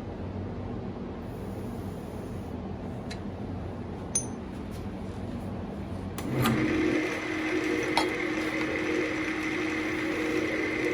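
A steady low hum with a few light clinks, then about six seconds in a click and an electric motor running louder with a steady whine, typical of a Central Machinery wood lathe being switched on and spinning up.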